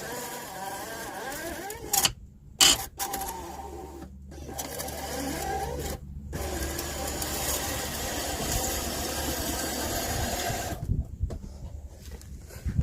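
Motorhome electric step's motor running as the step is worked in and out, in several runs with brief breaks, stopping about eleven seconds in. The step is being tested after repair, its support still bent.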